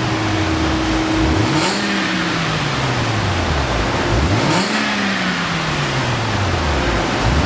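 Mercedes-Benz S350 engine through an aftermarket dual valve exhaust, revved three times: each rev climbs quickly and then falls away slowly over about three seconds.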